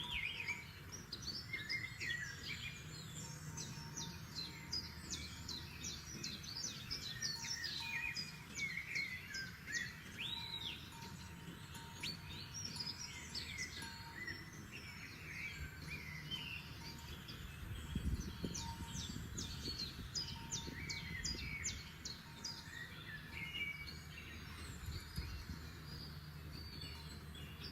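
Several forest songbirds singing and calling, with overlapping chirps, trills and quick runs of repeated high notes, over a low steady background rumble.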